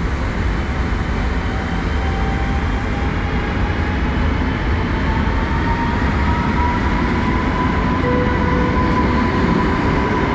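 Inside a Polregio ED72 electric multiple unit under way: the steady low rumble of the running train, with a thin whine that climbs slowly in pitch as the train picks up speed.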